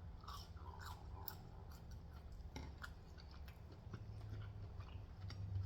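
Faint chewing, with soft, irregular mouth clicks.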